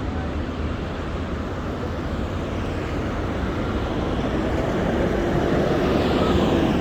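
Street traffic noise, with a vehicle growing louder as it approaches and passes near the end.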